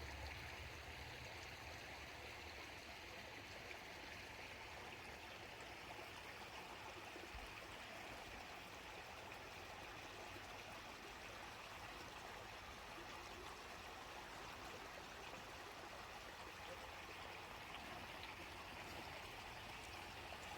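Faint, steady trickle of water running over a backyard pond's waterfall.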